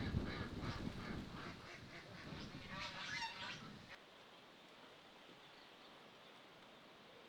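Domestic waterfowl giving a quick series of honking calls, about three or four a second. The calls stop abruptly about four seconds in, leaving only faint outdoor background.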